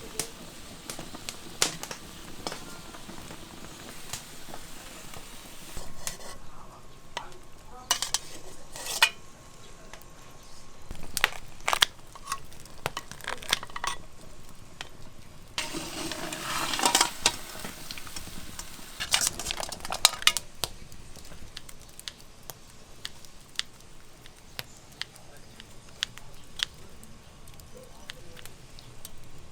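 Kitchen clatter: pots, dishes and metal utensils being handled, with many scattered sharp clinks and knocks and a louder spell of rattling a little past the middle.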